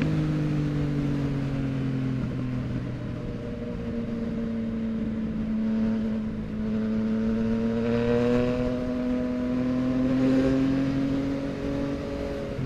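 2023 Yamaha MT-09's three-cylinder engine running through a Full Mexx aftermarket full exhaust under way, its note holding fairly steady and drifting slowly up and down in pitch.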